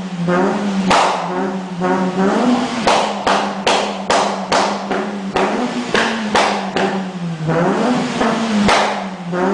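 Citroën Saxo Cup's four-cylinder engine held at high, nearly steady revs with a slightly wavering note, broken by frequent sharp cracks, several a second at times.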